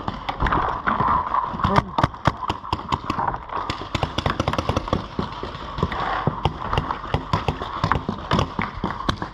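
Paintball markers firing in a firefight: many sharp, irregular pops, several a second.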